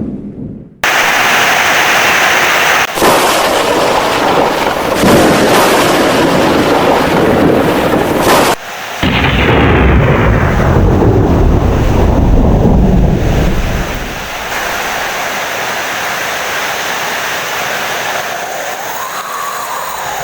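Thunderstorm with heavy rain: thunder breaks in suddenly about a second in and rumbles on loudly, easing off about two-thirds of the way through to leave a steady downpour.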